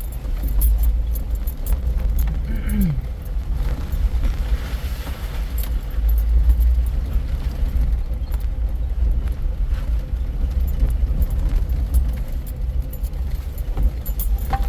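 Four-wheel-drive vehicle driving slowly over a rough dirt trail: a steady low engine and drivetrain rumble with frequent light clicks and rattles.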